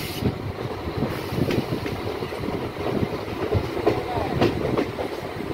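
EMU local train running on the track, heard from inside the coach: a steady rumble of the wheels with irregular clattering knocks over rail joints and points.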